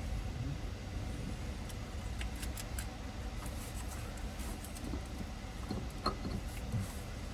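Scattered light metallic clinks of tools and parts being handled under a car, with a couple of short knocks near the end, over a steady low shop hum.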